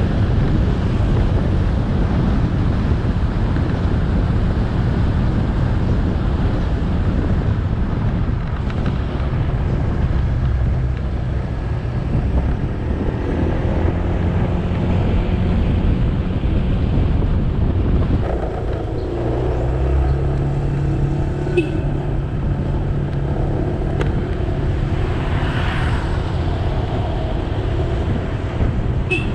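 Motorcycle engine running while riding, mixed with dense wind and road noise on the action camera's microphone and passing traffic. The engine note shifts about two-thirds of the way through.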